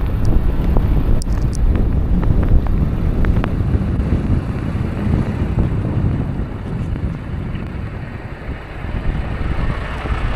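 Wind buffeting the microphone outdoors in a snowstorm: a loud, gusting low rumble that eases a little past the middle, with a few faint clicks.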